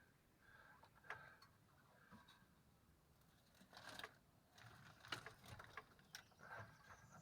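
Faint scattered clicks and knocks of hands-on work on a car engine, with a short clatter about four seconds in and more between five and six and a half seconds.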